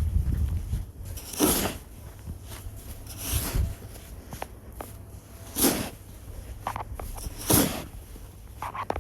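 Snow shovel working in snow: four short scooping sounds about two seconds apart, with fainter scrapes between them.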